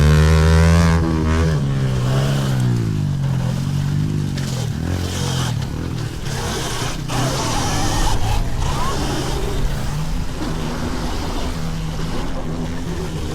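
Pit bike engines revving and running. The pitch swoops up and down and is loudest in the first second or so, then settles into a lower, steadier running sound with a rough rattle over it.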